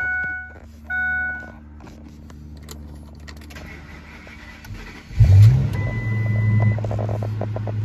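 Dashboard warning chime beeping twice, then a V10 engine cold-starting: it fires about five seconds in, flares briefly and settles into a steady idle. It is the first start after two weeks of sitting, with the transmission fluid and coolant cold, breathing through an MBRP aftermarket exhaust.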